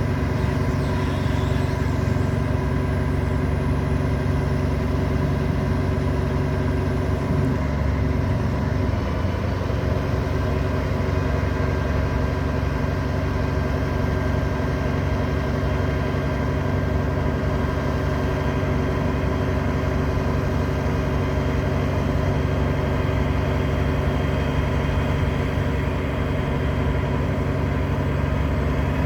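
Diesel engine of a 2012 Peterbilt 348 rollback truck idling steadily.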